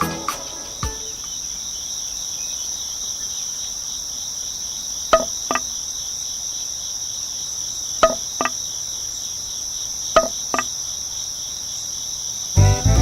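Steady high chirring of crickets, with three pairs of short sharp taps spaced a few seconds apart; music comes in near the end.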